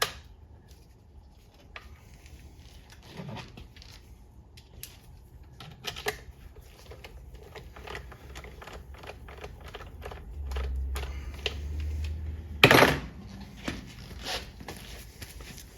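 Scattered small clicks and taps of parts and hand tools being handled during transmission assembly, with a low hum for a couple of seconds and then one louder knock about three-quarters of the way through.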